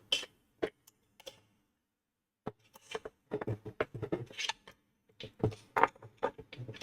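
Irregular clicks, knocks and short scrapes of hard plastic parts being handled and pried as the Kenwood stand mixer's casing is worked loose, with a pause of about a second partway through.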